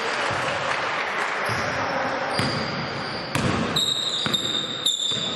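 A basketball being dribbled and bouncing on an indoor court, a run of repeated thuds over the noise of the hall, with a few sharper knocks. From about two-thirds in, short high squeaks come and go.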